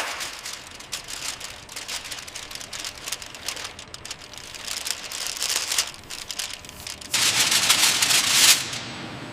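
Crackling, crinkling noise of thin Kapton foil being pressed and smoothed down, louder for about a second and a half near the end.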